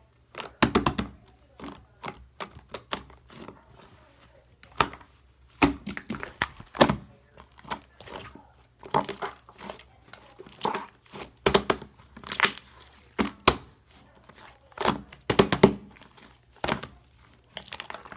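Slime being kneaded and pressed by hand, giving irregular sticky clicks, pops and crackles, with clusters of louder pops every few seconds.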